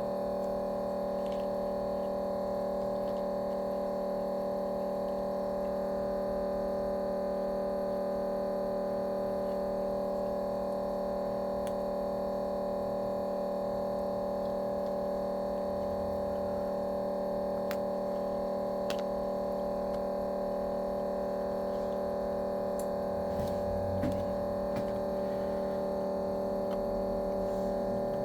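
A steady electrical hum made of several fixed tones, with a few faint clicks near the end.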